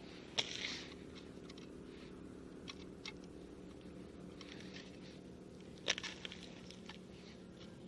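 Two sharp clicks, about half a second in and about six seconds in, each followed by a brief rustle, with a few fainter ticks, over a steady low hum.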